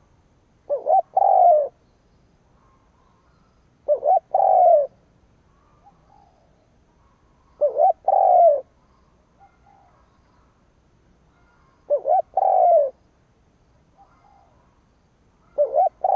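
Spotted dove kept as a decoy, cooing its territorial call: a phrase of two short notes and a longer drawn-out note, repeated about every four seconds, five times, the last cut off.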